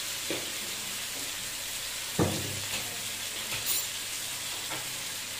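Chicken mince sizzling in hot oil in a frying pan over high heat, with a single knock about two seconds in.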